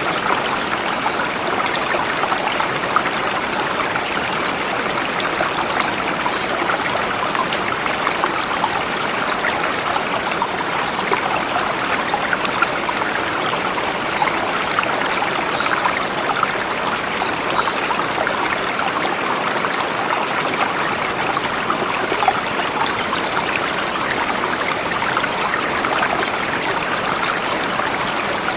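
River flowing over rocks: a steady rushing and babbling of water with small splashes, unchanging throughout.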